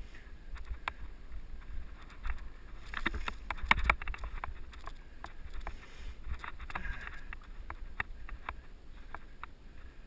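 A Giant mountain bike rattling and clicking irregularly as it rides over a dirt trail, with a steady low rumble of wind on the microphone. A dense flurry of rattles comes about four seconds in.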